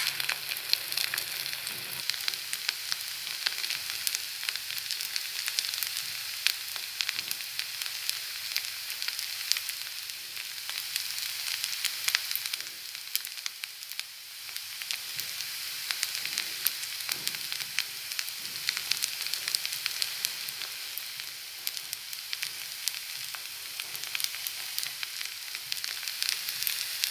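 Egg fried rice sizzling in hot fat in a stainless steel pan: a steady hiss with many scattered sharp ticks and pops.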